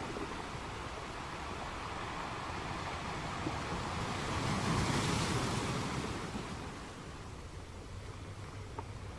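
Sea surf: a steady rush of waves, swelling as a wave breaks about five seconds in, then washing back and easing off.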